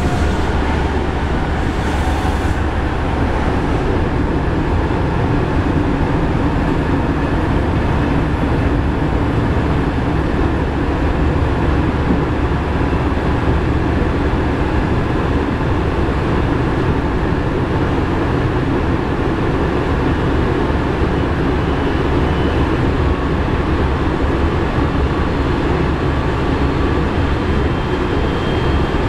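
Steady running noise of a Nankai 1000 series electric train heard inside the car over its bogie: a loud, even rumble of wheels and running gear with faint motor tones. The uploader presents this running sound as an abnormal noise (異音) from the car.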